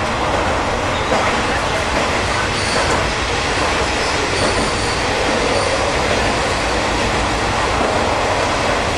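Kamioka Railway diesel railcar running through a tunnel, heard from inside the cab: a steady, loud rumble of wheels on rail and engine, with faint high wheel squealing about three to five seconds in.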